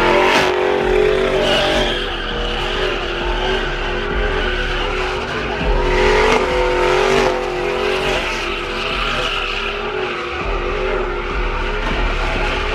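Vehicle doing a burnout: tyres squealing continuously with a wavering pitch over the running engine.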